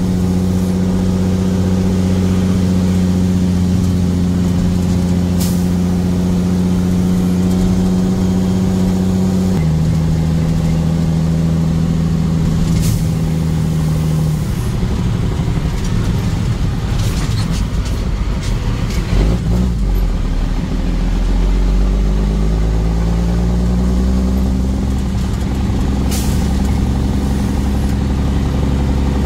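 Car engine and road noise while driving: the engine holds a steady note, drops in pitch about ten seconds in, runs rougher in the middle, then picks up and rises again near the end. A few sharp knocks come through along the way.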